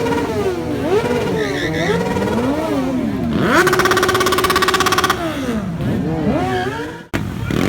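Several motorcycle engines revving over one another, their pitches rising and falling. About midway, one engine is held steady at high revs with a rapid pulsing for a second and a half. The sound cuts off abruptly near the end.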